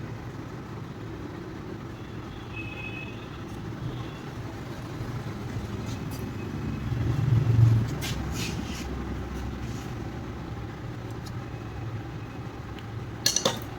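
Steady low motor-vehicle engine rumble that swells to a loud peak about halfway through and then falls back. A few sharp clicks follow, and a quick cluster of metallic knocks comes near the end.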